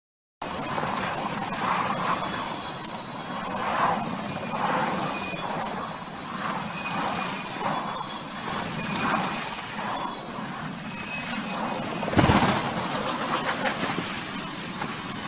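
Aircraft noise: a steady rushing with irregular swells, starting abruptly, and a sudden louder burst about twelve seconds in.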